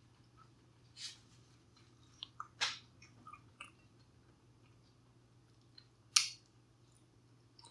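A person chewing food, with soft mouth noises and a few sharp crunches, the loudest about six seconds in.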